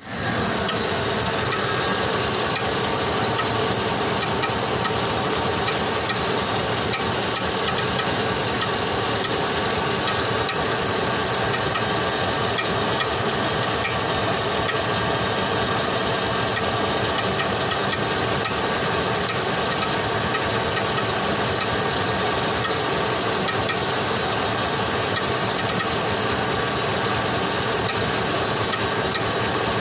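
2005 Chevrolet Tahoe running steadily, with faint repeated ticks over the engine: the unexplained noise that started coming from under the truck.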